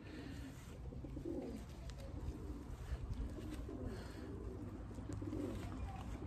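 Racing pigeons cooing, low warbling coos repeating every second or so, over a faint low hum.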